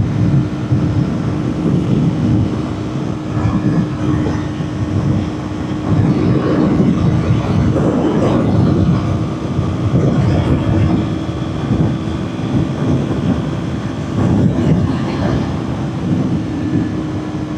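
Kawasaki Ninja 400's 399 cc parallel-twin engine holding a steady high-rpm drone at highway speed, under a heavy rush of wind noise on the microphone.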